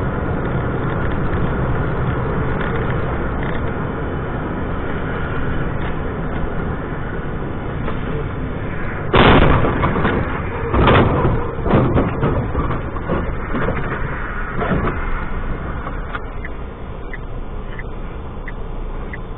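Steady road and engine noise inside a moving car, recorded by a dash cam, with a cluster of loud thumps and knocks about nine to thirteen seconds in.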